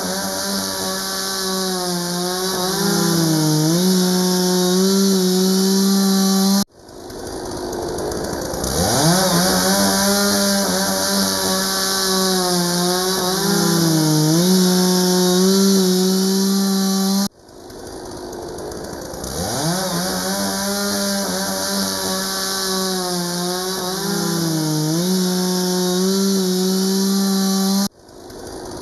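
Chainsaw revving up and then running at high speed while cutting through a fallen tree, its pitch dipping briefly now and then as it bogs into the wood. The same stretch of sound cuts off abruptly and starts over from the rev-up twice.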